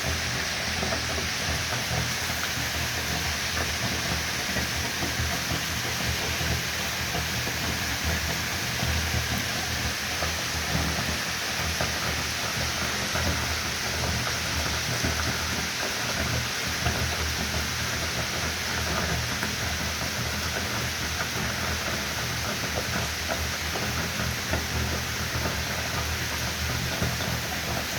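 Steady rain falling, a continuous hiss with a dense fine patter of drops.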